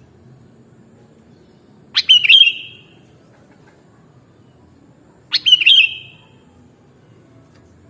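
Sooty-headed bulbul (kutilang) calling twice, about three seconds apart. Each is a short, loud, bubbly phrase of under a second.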